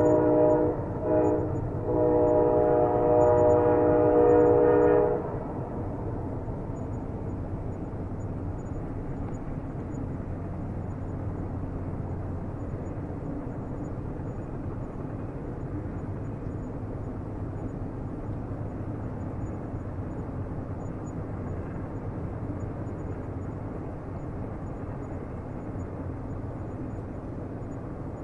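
Train air horn sounding a chord of several tones, with a brief break about a second in, then held again until it cuts off about five seconds in. After it, a steady low rumble of the train continues.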